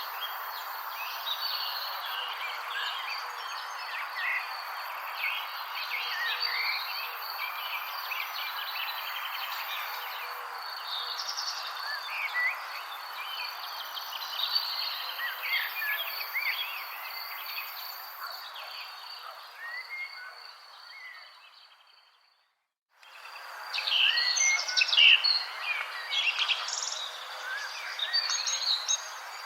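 Many songbirds chirping and singing over a steady high insect trill and an even hiss of background ambience. About two-thirds of the way through, everything fades out to silence and fades back in a second later.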